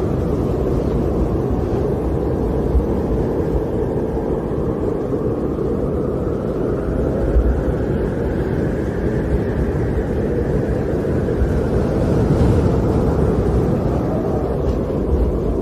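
Snowstorm wind blowing in a steady, deep rumble, with a faint whistling tone that drifts up and down in pitch.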